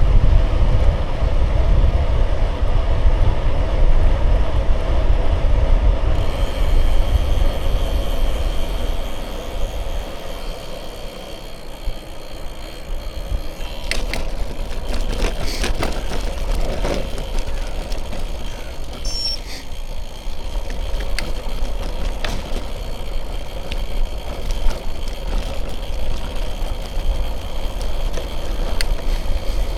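Bicycle riding noise: wind buffeting the microphone and tyres rolling along the road, with a heavy low rumble that eases after the first few seconds. Scattered sharp clicks and rattles from the bike come in the middle and near the end.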